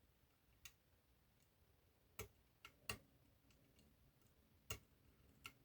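Small metal clicks of a long hook lifting and probing the levers inside an eight-lever lock held under tension. About six faint, irregular clicks spread over a few seconds.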